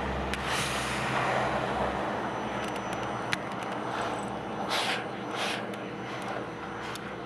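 Vacuum cleaner motor running steadily, used to brush a cat, its suction hiss swelling and fading several times as the nozzle moves through the fur. A low hum drops out about two seconds in.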